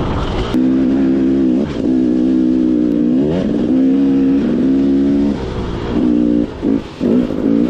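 Two-stroke dirt bike engine under way, held at steady revs with two rising revs, then blipped in a few short bursts near the end.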